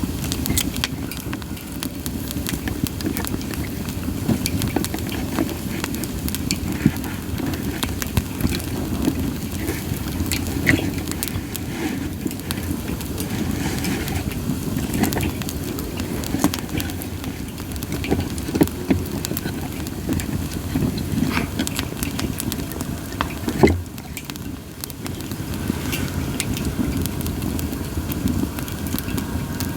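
Campfire of split sawtooth oak (kunugi) logs burning: a steady low rush of flames with frequent crackles and pops, and one sharper, louder pop late on.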